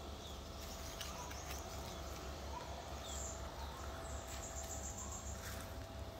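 Quiet outdoor garden ambience: a steady low hum with a few faint, high bird chirps and a short high trill about four seconds in.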